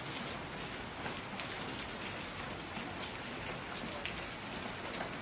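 Steady heavy rain falling and splashing on surfaces, with scattered sharper drop strikes.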